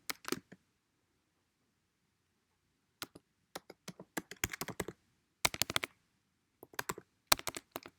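Computer keyboard typing: bursts of rapid keystrokes with short pauses between them, after about two and a half seconds of silence near the start.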